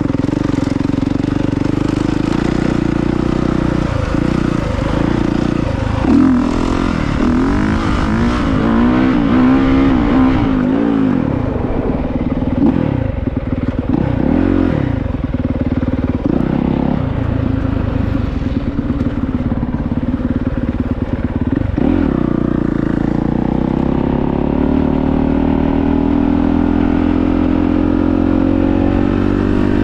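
Honda CRF450R's single-cylinder four-stroke engine running under a rider, its pitch rising and falling over and over as the throttle is opened and closed.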